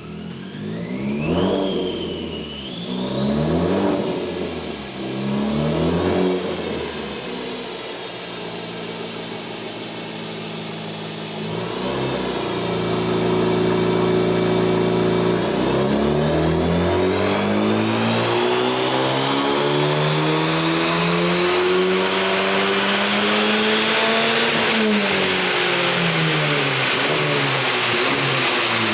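Honda Civic Type R FL5's turbocharged 2.0-litre K20C1 four-cylinder running through a Milltek valved sport exhaust. It gives several quick rev blips, holds steady revs twice, then climbs in one long rising pull. Near the end the pitch dips slightly and the engine stays loud.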